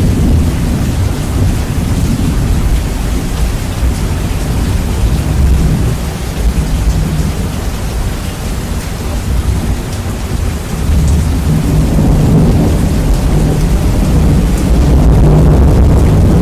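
Heavy rain with thunder, heavily bass-boosted so that a deep, loud rumble dominates. The rumble swells louder from a little past the middle toward the end.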